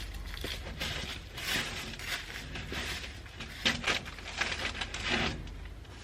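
Irregular rustling, scraping and light clicking from things being handled, in uneven bursts, a little louder about a second and a half in, near four seconds and around five seconds.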